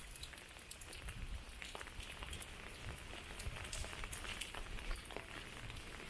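Rain falling, with many scattered drops ticking close by over a low, steady rumble.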